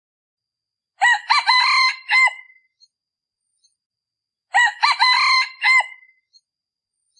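A male decoy junglefowl cock crowing twice, each crow short and clipped, about three and a half seconds apart. This is the call used to lure wild junglefowl cocks.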